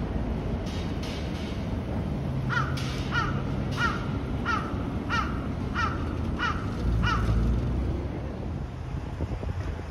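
A bird calling a quick run of about eight short, falling calls, starting a couple of seconds in, with a few fainter calls before. A steady low hum of city traffic runs underneath.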